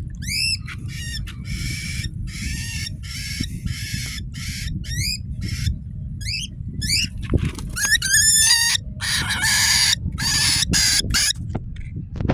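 Cockatiel calling: short arched whistled chirps mixed with long harsh, raspy screeches, repeated throughout, over a low background rumble.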